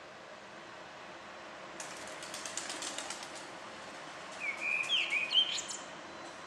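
Birds outside a city window: a rapid rattle of dry clicks about two seconds in, then a short burst of loud chirping notes sliding up and down, over a steady background hiss of city noise.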